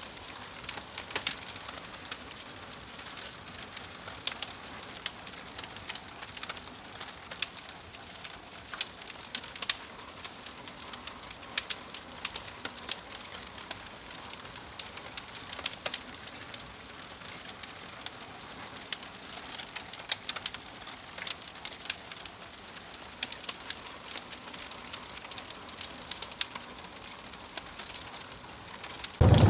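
Fire crackling: a steady soft hiss with many irregular sharp pops and snaps. Right at the end, a much louder low rumbling noise cuts in suddenly.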